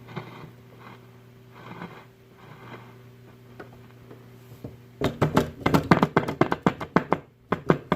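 A tube radio hums steadily through its speaker, a low buzz with several overtones. From about five seconds in, a rapid, irregular run of loud crackles and clicks breaks in.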